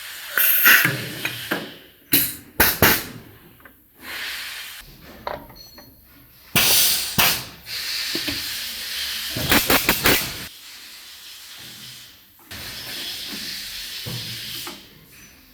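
Compressed air hissing from a truck air brake relay valve under test, in several separate blasts with sharp clicks as the air is let go and cut off.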